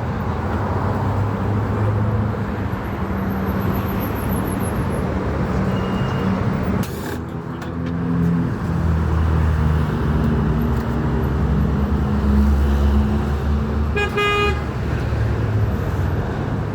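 Motor vehicle engine running with a low hum that shifts in pitch, and a short horn toot about 14 seconds in.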